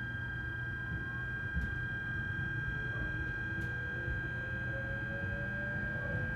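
Running sound inside the motor car of a JR E129-series electric train: a steady low rumble of wheels on rail with a constant high tone, and the inverter-driven traction motors giving rising whines as the train gathers speed. A few faint clicks come through.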